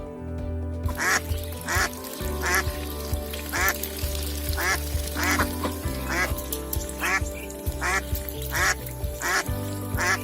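A duck quacking over and over in an even series, a quack roughly every two-thirds of a second starting about a second in, over background music.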